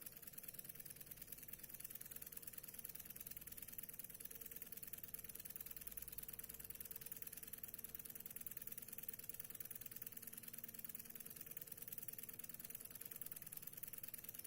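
Small Stirling engine with a large flywheel running steadily and faintly: a smooth, even mechanical hum with a light rattle.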